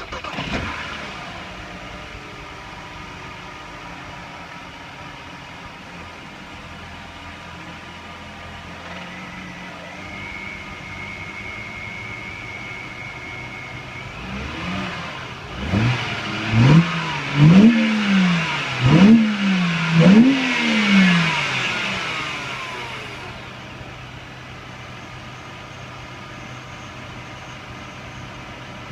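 BMW E90 325i straight-six, breathing through an aFe Stage 2 sealed cone-filter intake, just caught after starting and idling steadily. About halfway through it is blipped through a quick run of four or five revs, each rising and falling in pitch, then settles back to idle.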